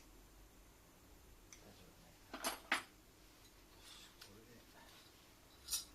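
A few brief, light clinks of hard objects being handled: two close together about two and a half seconds in, and one more near the end.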